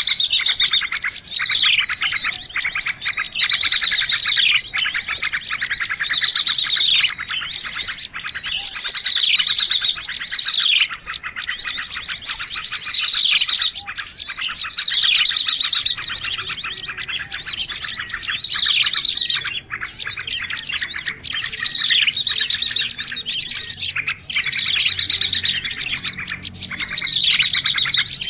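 Recorded lure call of a small songbird: loud, high chirping phrases of rapid trills that sweep downward, repeated about every two seconds, as played to attract small birds.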